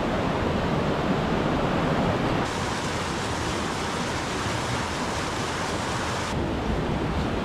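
A waterfall in spate, swollen by heavy rain, giving a steady rush of falling water. The hiss turns brighter for a few seconds in the middle.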